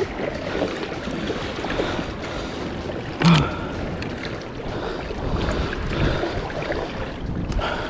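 Water sloshing and wind on the sea around a kayak, a steady rushing noise with one short thump about three seconds in.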